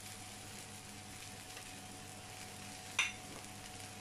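Onions, cabbage and ginger-garlic paste sizzling softly in hot oil in an aluminium pressure cooker, with green chillies and curry leaves just added, over a faint steady hum. A single brief sharp sound stands out about three seconds in.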